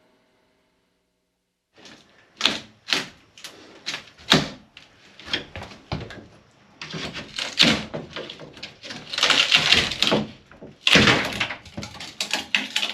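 Work on the motorhome's interior wall panels: a run of sharp knocks and thuds, with longer stretches of scraping and tearing as panels are pried and ripped loose. It starts about two seconds in, after a silence.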